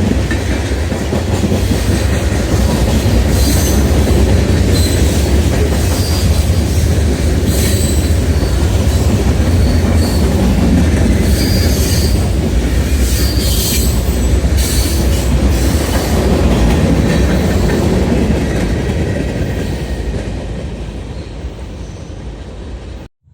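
Freight train rolling past close by, a heavy rumble of railcars with wheels clicking over the rail and squealing on and off. It fades near the end and cuts off suddenly.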